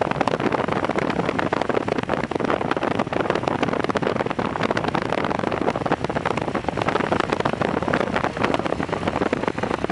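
Strong wind buffeting the microphone in a loud, continuous, crackling rush.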